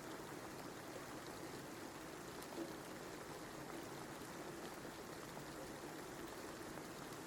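Steady rain, an even hiss with faint scattered drop ticks and one slightly louder drop about two and a half seconds in.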